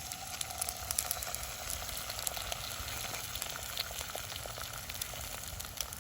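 Small twig campfire crackling and sizzling with many quick irregular pops, over a faint steady tone.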